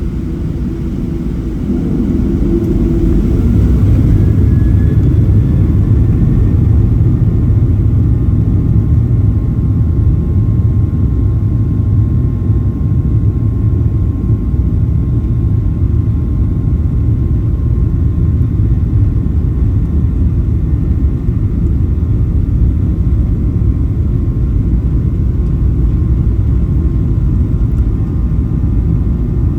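Boeing 737-700 CFM56-7B turbofan engines heard from inside the cabin. They spool up about two seconds in, then run as a steady, loud low rumble with faint high tones above it, as on a takeoff roll at takeoff power.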